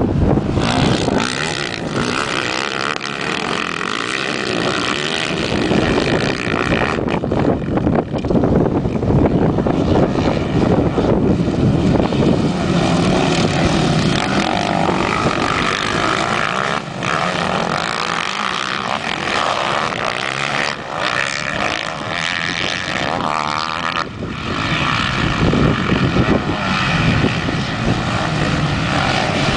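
A pack of motocross bikes racing past, their engines revving and shifting so that the pitch keeps rising and falling.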